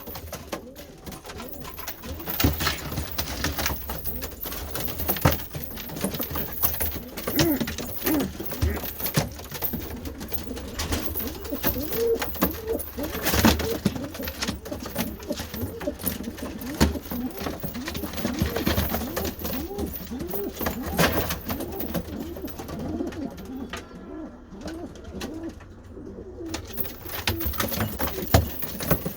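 Domestic pigeons cooing, many short wavering coos overlapping throughout, with scattered sharp clicks and knocks among them.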